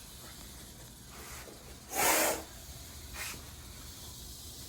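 Monocled cobra hissing: one loud hiss about two seconds in, then a shorter, fainter one about a second later.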